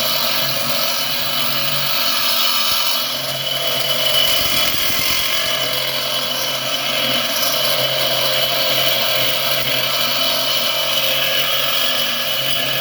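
A power tool running steadily under continuous load, a loud high-pitched whirring hiss with a faint low hum beneath, stopping near the end.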